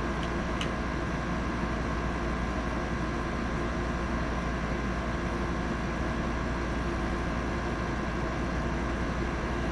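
Steady mechanical hum and hiss with several constant tones, and two faint clicks about half a second in.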